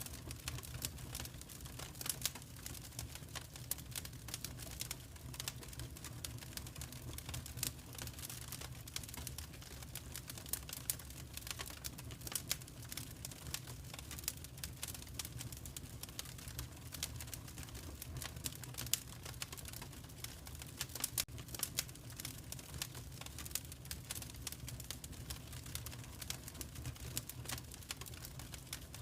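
Wood fire crackling in a fireplace: dense, irregular sharp crackles and occasional louder pops over a steady low rumble of the burning fire.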